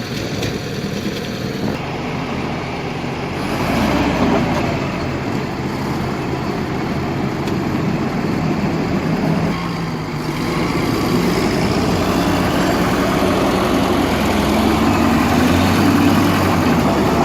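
Heavy vehicle engines running under load, their pitch rising and falling, louder from about four seconds in.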